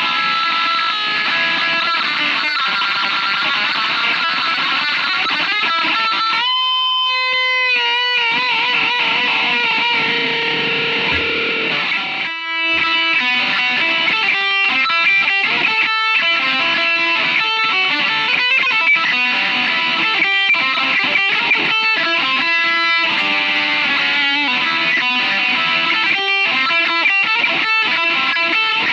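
Distorted electric guitar playing a fast rock lead, with quick runs of picked notes. About six and a half seconds in it holds one long note, shaken with wide vibrato, before the rapid runs resume.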